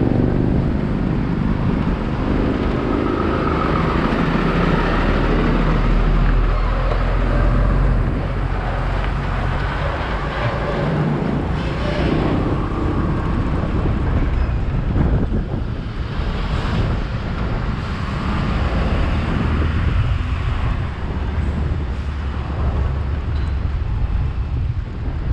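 Steady road noise from a ride on a Suzuki Access 125 scooter: the engine running and surrounding traffic, with wind buffeting the action-camera microphone.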